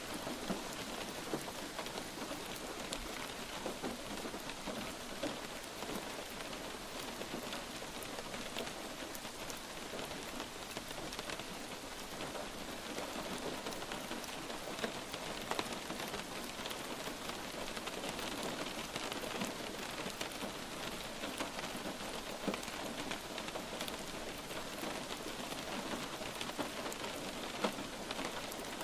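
Light rain falling steadily, a continuous hiss of rain with many separate drop ticks scattered through it.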